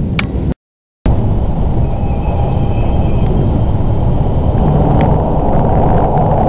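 Steady rumble of an express train running at speed, heard from inside the passenger car. The sound drops out completely for about half a second near the start, then the rumble grows fuller from about five seconds in as the train enters a tunnel.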